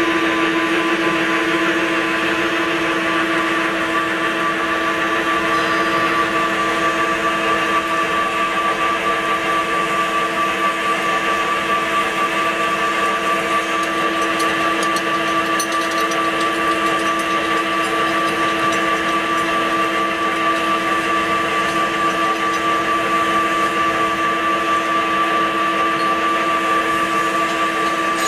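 CNC vertical drilling machine running with a steady motor whine, several constant tones over a noisy hum, and a few faint ticks midway.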